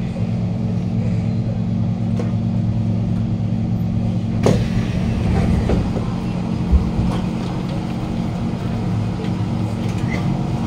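Steady electrical and mechanical hum inside a Kawasaki Heavy Industries C151 train car standing at a station platform. A sharp clack about four and a half seconds in comes as the car's doors open, and a dull thump follows a couple of seconds later.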